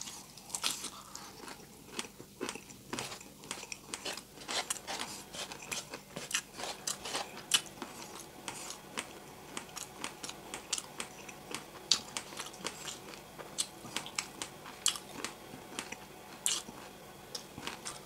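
A person biting and chewing crispy fried pork with rice: many sharp crunches in quick succession, with wet chewing between them.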